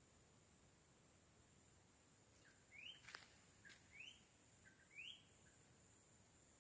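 A bird calling faintly three times about a second apart, each call a short rising note led by a lower one. A sharp click comes about three seconds in.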